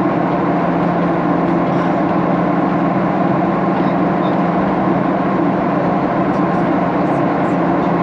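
Steady cabin noise aboard a Boeing 737-800: an even roar of its CFM56 jet engines and airflow with a constant low hum.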